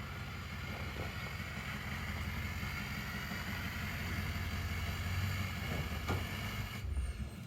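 Aerosol spray paint can spraying in one continuous hiss for about seven seconds, cutting off near the end, over a steady low rumble of wind on the microphone.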